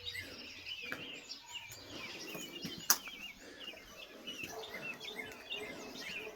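Small birds chirping steadily, many short rising-and-falling chirps overlapping. A single sharp click about three seconds in.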